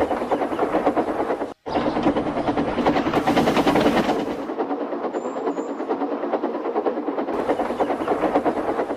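Train running, a loud fast even rhythmic clatter, broken by a brief cut about one and a half seconds in.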